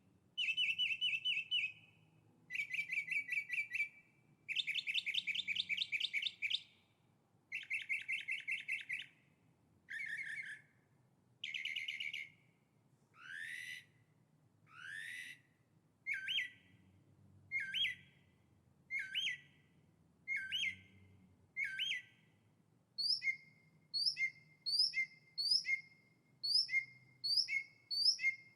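A songbird singing in distinct phrases. First come several fast trilled phrases, each one to two seconds long. About halfway in there are two rising sweeps, then a run of short clear notes repeated about once a second.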